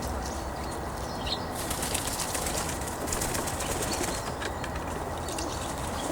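Birds' wings flapping in a flurry, with a short high chirp about a second in.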